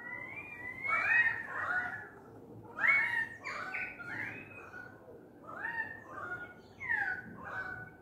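Australian magpies and currawongs calling, a string of loud fluty notes that slide up and down in pitch, coming about once a second and sometimes overlapping. Near the end one call drops steeply in pitch.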